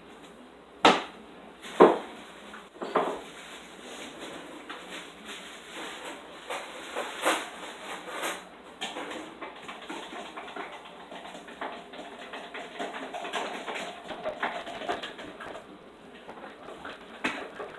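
Kitchen clatter: dishes and utensils knocking and rattling, with three sharp knocks about a second apart near the start, then lighter clicks and scrapes.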